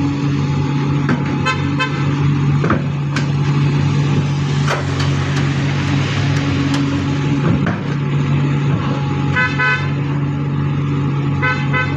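A heavy diesel engine runs steadily at low revs. A few sharp knocks come in the middle, and three bursts of short, rapid vehicle horn toots sound: one early, one about three-quarters through and one near the end.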